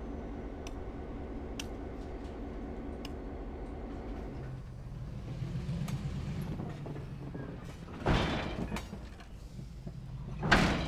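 Railroad sounds around a standing steam locomotive: a steady mechanical hum with a few faint clicks. After about four and a half seconds a lower rumble takes over, broken by two loud, sudden bursts of noise, one about eight seconds in and one near the end.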